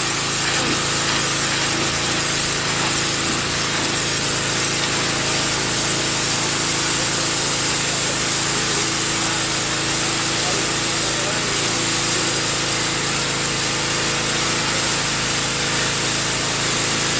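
Pressure washer with a sand injection nozzle spraying a sand-laden water jet onto concrete: a steady, loud hiss over the constant hum of the machine's motor. The sand in the jet etches the concrete surface more deeply than water alone.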